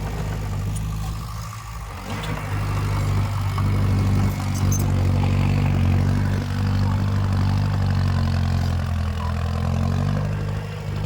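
Diesel engine of heavy earthmoving machinery running steadily, getting louder about two seconds in and easing off again near the end.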